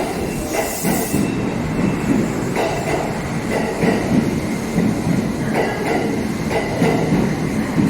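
Kintetsu Nara Line electric train running by at a station, its wheels clacking over rail joints every second or so, with a thin steady whine above the rumble.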